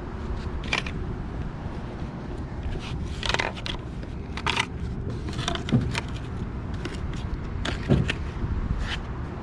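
A handful of short scrapes and knocks as corner protectors are slid into place between tie-down straps and a flatbed load, over a steady low rumble.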